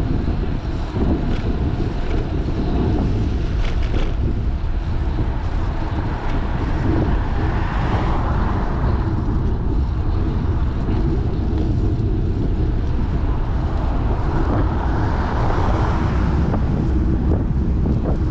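Wind rushing over a GoPro's microphone while cycling: a steady low rumble that swells a little twice.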